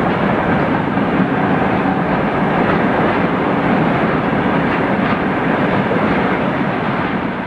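Freight train rolling past: a loud, steady rumble and rattle of wagon wheels on the rails.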